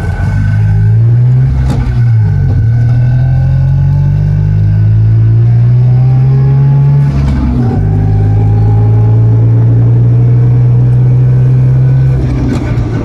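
Messerschmitt bubble car's single-cylinder two-stroke engine, heard from inside the cabin while driving. Its pitch climbs as it pulls and drops sharply at upshifts about two seconds in and about halfway through, then eases off near the end.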